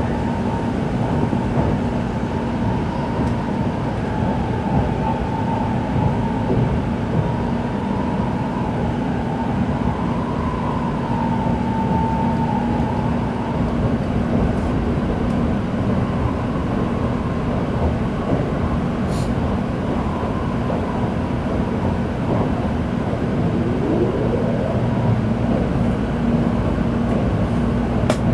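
Tokaido Shinkansen train running, heard from inside the passenger car: a steady rumble with a low hum and a faint wavering whine, and a short rising whine a few seconds before the end.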